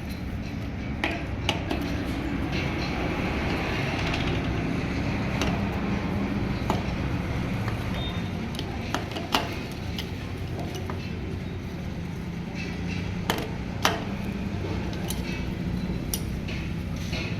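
Metal tools clinking against motorcycle engine parts, eight or so sharp clinks spread out over a steady low hum.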